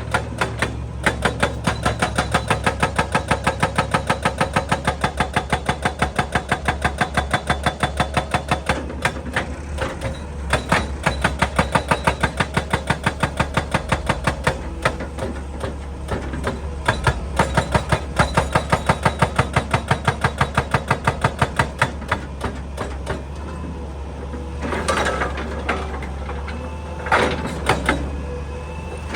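Excavator's hydraulic breaker hammering rock in runs of about six or seven blows a second, over the steady drone of the excavator's engine. The runs stop and start several times, and near the end come a few louder, irregular knocks.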